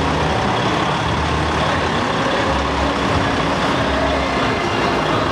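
Trucks' diesel engines running as lorries drive past: a steady, dense rumble of heavy-vehicle traffic.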